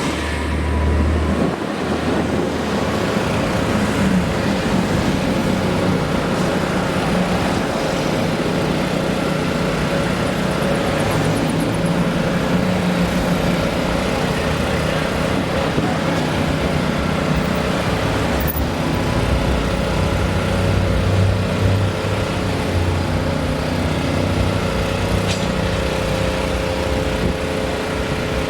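Engines running steadily over constant road-traffic noise, with a deeper engine drone swelling for a few seconds about two-thirds of the way in.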